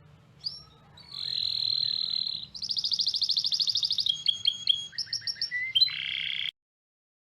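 A songbird singing: a high held whistle, then a fast trill, then a run of short chirps and a lower final note, cutting off suddenly about six and a half seconds in.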